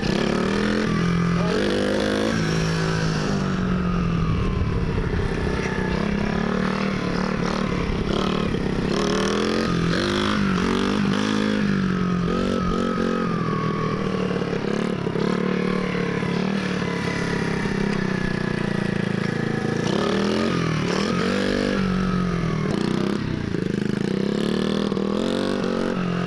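Small pit bike's engine revving up and down as it is ridden, its pitch rising and falling again and again.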